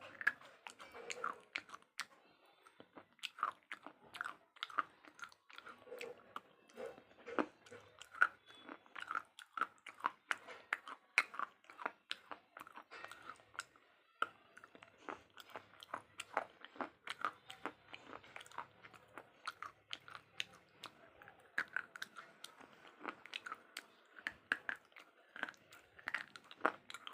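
Close-up biting and crunching of pieces of slate, with many sharp, crisp cracks a second as it is chewed.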